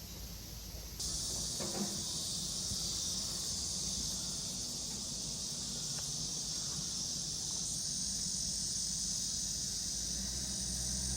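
Insects droning in a steady, high-pitched chorus that starts abruptly about a second in, with a thin steady whine added over its second half.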